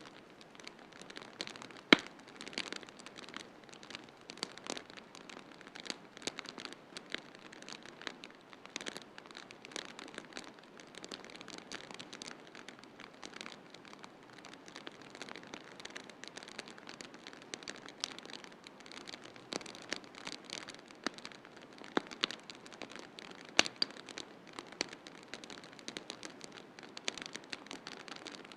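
Wood fire in a fireplace crackling, with a stream of irregular sharp pops and snaps, one louder pop about two seconds in, over a steady soft hiss.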